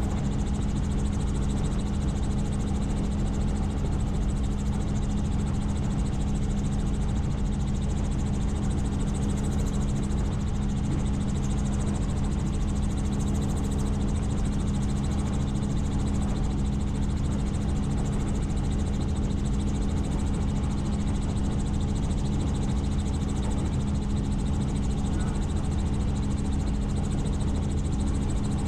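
Helicopter in steady flight: an even, unbroken drone of rotor and turbine engine, with a strong constant low hum.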